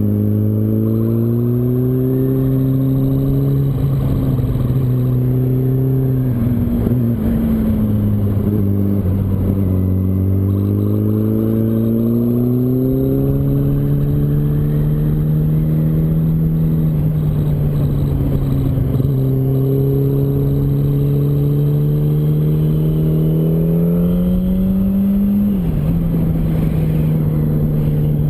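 Yamaha R1's inline-four engine running through a series of corners. The pitch falls as the bike slows and rises again on acceleration. Near the end it climbs steadily and then drops sharply at a gear change.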